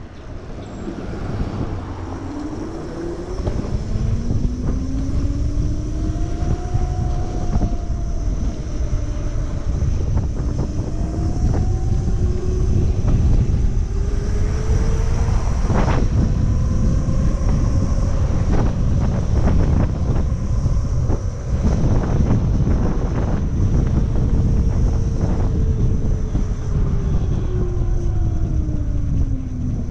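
Wind buffeting the microphone on a moving Monday Motorbikes Gen7 electric moped, with the electric motor's whine rising in pitch as the bike speeds up over the first few seconds, holding, then sliding down near the end as it slows. A few sharp knocks come around the middle.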